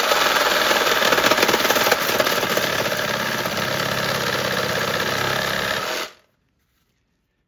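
A power tool runs loudly and steadily with a rapid repeated action, then cuts off suddenly about six seconds in.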